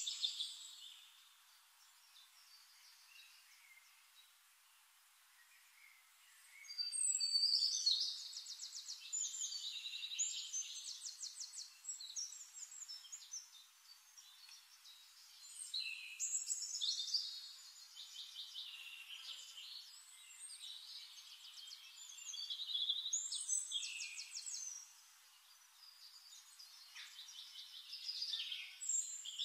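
Songbirds singing in high, rapid trilled phrases, a burst every several seconds with quieter gaps between.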